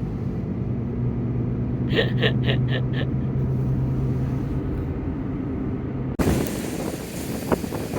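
Steady low hum of a vehicle running, heard from inside, with five quick electronic beeps about two seconds in. About six seconds in the sound cuts abruptly to gale-force wind buffeting the microphone over lake surf.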